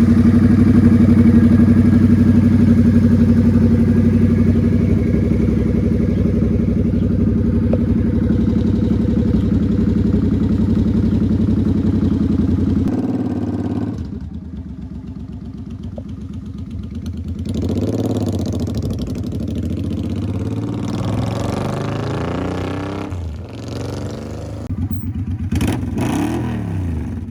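Suzuki M50's V-twin engine running steadily after its clutch replacement. About halfway through it drops away, then its pitch rises and falls several times as the bike is ridden with the throttle opened and closed.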